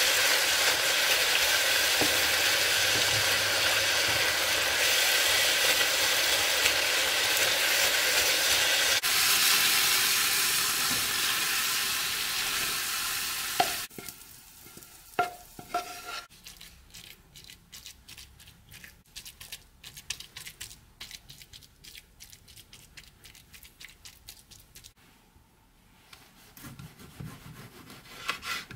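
Minced meat with grated carrot and onion sizzling in a hot frying pan while a wooden spatula stirs it. About halfway through, the sizzling stops and is followed by many short scrapes and taps of the wooden spatula as the cooked mince is spooned out of the pan into a baking dish. Near the end comes a knife cutting a tomato on a wooden board.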